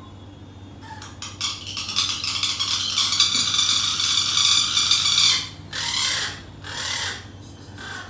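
A pet bird's harsh, hissing rasp lasting about four seconds, then two shorter rasping calls: the bird scolding.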